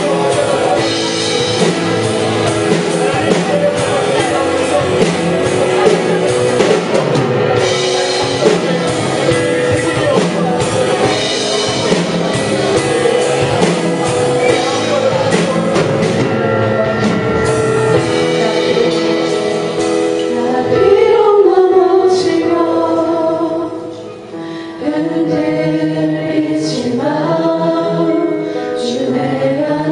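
Live worship band playing slow music with voices singing. The drums and cymbals fall away about twenty seconds in, leaving sustained instruments and singing voices.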